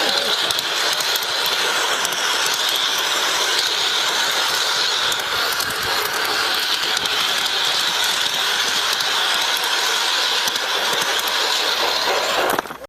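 Garden-railway model train running along its outdoor track: a steady mechanical whir and rattle of its geared drive and wheels on the rails. The sound cuts off abruptly near the end.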